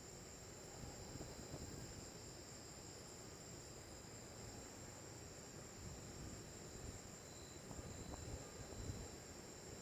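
Insects, crickets by their sound, trilling steadily at several high pitches, over a faint, uneven low rumble.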